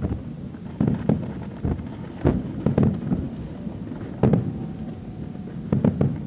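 Fireworks display bursting: about ten irregular bangs, several in quick clusters, each trailing off in a low rolling rumble.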